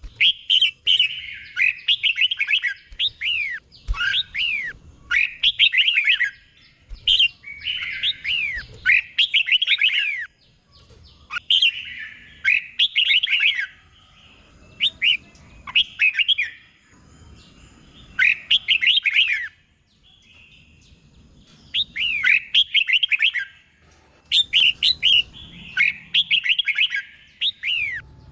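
Red-whiskered bulbul singing: short phrases of quick, clear, downward-slurred whistled notes, repeated every second or two, with one longer pause about two-thirds of the way through.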